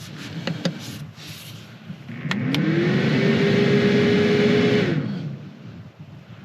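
A few clicks, then a small electric motor or fan spins up with a rising whir, runs steadily for about two seconds and winds down.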